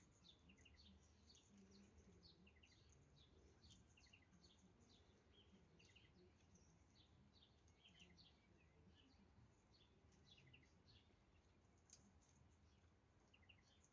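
Faint, steady twittering of birds: many short, high chirps in quick succession over a low background hum, with a single click about twelve seconds in.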